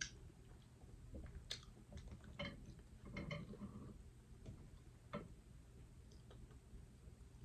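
Close-miked chewing with faint wet mouth smacks and clicks at irregular intervals, a denser cluster about three seconds in.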